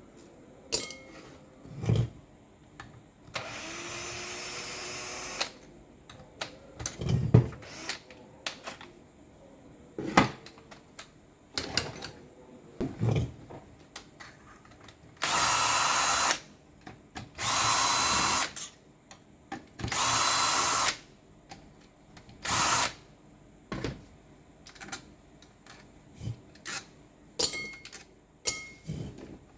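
A power tool, such as a drill or driver, runs once for about two seconds and then in three loud bursts of a second or so in quick succession, between scattered clicks and knocks of metal parts and tools being handled on the bench.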